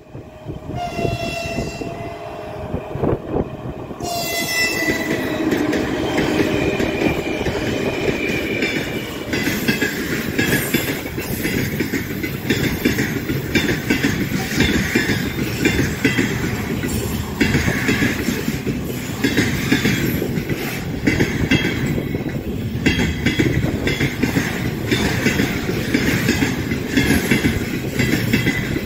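An Ermak-series electric locomotive sounds its horn for several seconds as it comes up and passes, the horn's pitch dropping as it goes by. Then a long freight train of container flatcars rolls past close by with a loud rumble and a rhythmic clickety-clack of wheels over the rail joints.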